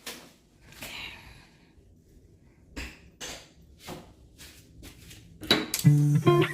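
A handful of separate light knocks and clicks, spaced irregularly, then plucked guitar music with bass comes in near the end.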